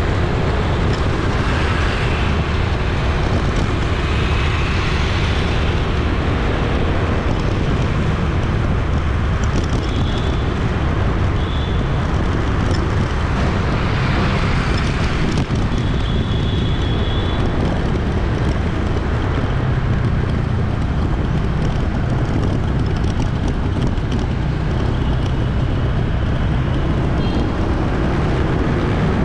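Steady city street traffic, a dense mix of motorbike and car engines passing, with short high-pitched sounds such as horns or brakes a few times.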